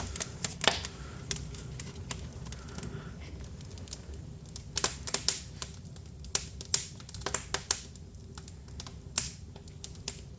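Wood fire burning in a new fireplace's firebox: irregular crackles and snaps over a steady low hum of the chimney draft, which is drawing strongly.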